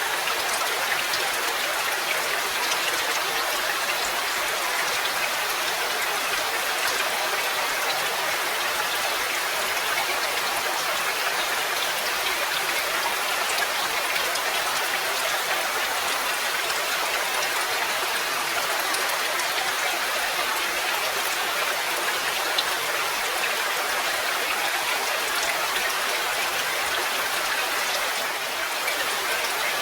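Steady rain: a dense, even patter of raindrops with no let-up, dipping slightly near the end.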